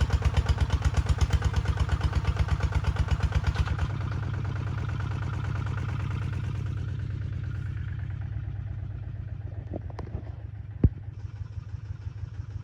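Kubota tractor's diesel engine running with a strong, even pulsing beat, dropping to a quieter, steadier run about four seconds in. Two sharp clicks near the end, the second a loud knock.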